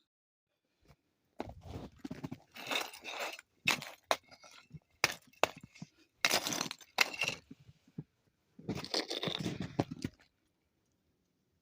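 A pick chopping into hard-packed, wind-drifted snow: a series of crunching, breaking strikes with a couple of sharp clicks, in separate bursts with short silences between them.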